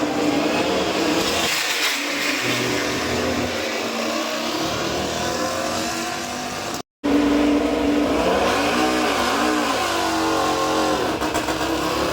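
MotoGP racing motorcycle engines running and revving, their pitch rising and falling again and again. The sound cuts out for a split second about seven seconds in, then resumes.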